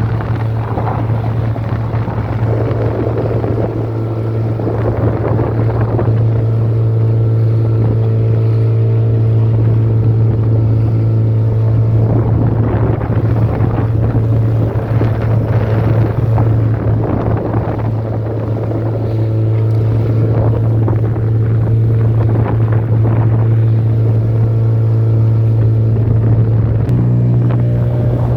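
A boat's motor running steadily under way, with wind buffeting the microphone and surges of rushing water. The engine note steps up slightly near the end.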